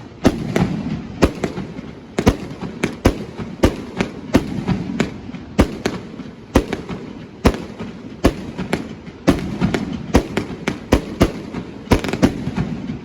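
Consumer fireworks going off: a fast, irregular run of sharp bangs, about two or three a second.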